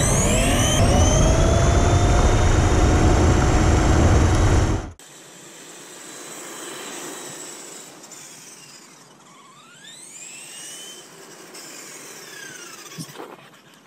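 Electric motor of an RC truck on a 2S lipo whining as it speeds up and slows on a speed run, its pitch rising and falling. Heavy wind rumble on the microphone for the first five seconds, then quieter, with one more whine rising and then falling away near the end.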